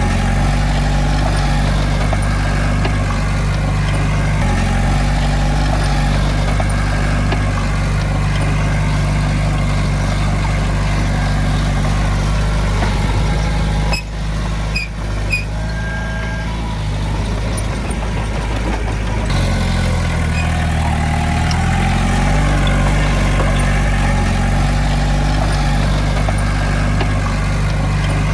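Heavy diesel engine running steadily at a constant pitch, dipping briefly about halfway through and shifting in pitch a few seconds later.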